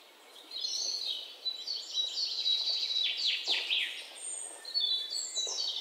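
Birds chirping and singing: a dense run of high chirps starting about half a second in, with several quick downward-sweeping calls around the middle.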